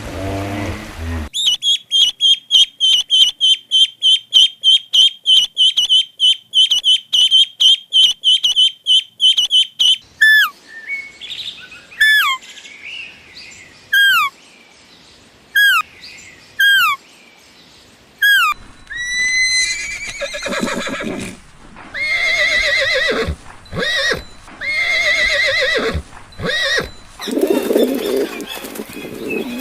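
A series of animal calls, mostly birds. First comes a fast run of high chirps lasting several seconds. Then single falling chirps sound a second or two apart, and longer wavering calls follow near the end.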